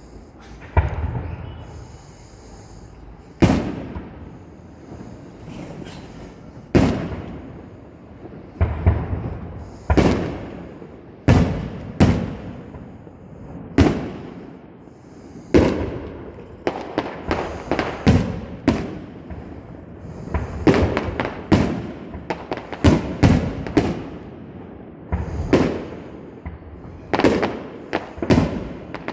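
Fireworks going off: a string of sharp bangs at irregular intervals, each trailing off with a short echo. From about halfway through they come faster, several in quick succession.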